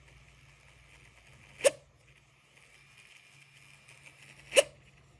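Dell XPS 13 7390 laptop's processor fan running with a faint steady whine, broken twice by a short, sharp knock about three seconds apart. This is the abnormal fan noise of a fan that Dell diagnostics report as failed.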